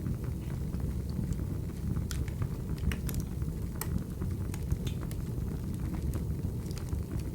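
Wood fire burning: a steady low rumble with sharp crackles and pops scattered irregularly through it.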